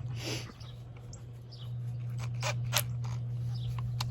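Handling noise from tools and parts: a short scrape about a quarter second in, then a few sharp clicks, over a steady low hum.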